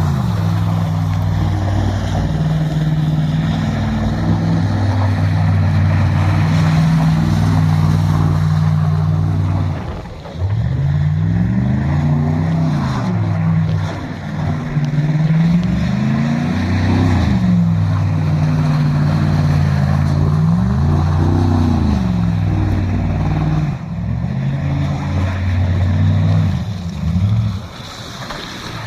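Ford Crown Victoria V8 running loud through a muffler-delete exhaust. It holds steady revs for about the first ten seconds, then revs rise and fall several times in a row.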